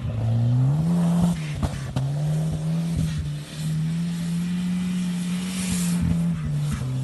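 Volvo 940's B230FT turbocharged four-cylinder engine revving hard under load, its pitch rising and falling several times as the car is driven and drifted, with a brief hiss of tyre noise about five to six seconds in.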